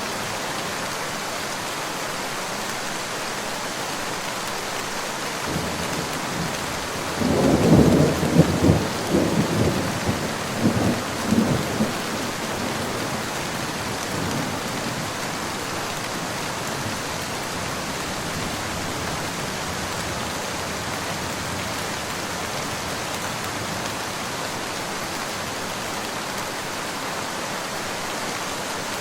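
Steady rain falling, with a crackling roll of thunder about seven seconds in that peaks around eight seconds and rumbles away over the next few seconds.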